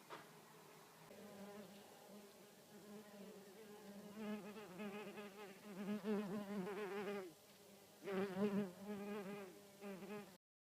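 Red mason bees buzzing in flight, a wavering buzz that grows louder about four seconds in, drops away briefly near the middle, returns, then cuts off suddenly near the end.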